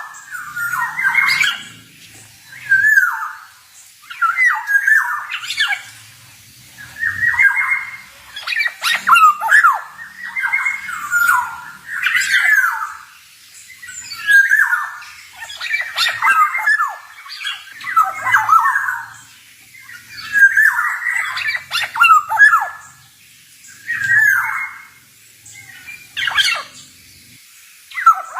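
Male black-naped oriole singing: short fluty whistled phrases repeated about every two seconds, with sharp clicking notes mixed in.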